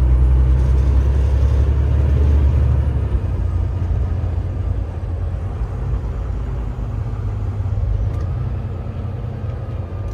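Car-hauler semi truck running on the road, heard from the cab: a steady low engine and road rumble, heavier for the first three seconds and then easing off.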